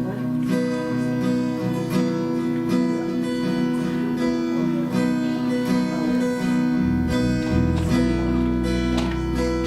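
Worship band playing an instrumental passage of a slow song, led by strummed acoustic guitar; a bass comes in about seven seconds in.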